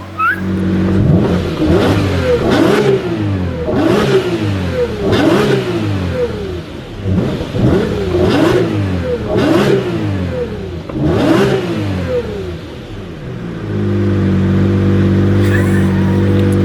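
Lamborghini Reventón V12 engine blipped about ten times in quick succession, each rev a sharp rise and fall in pitch, then settling into a steady, louder idle near the end.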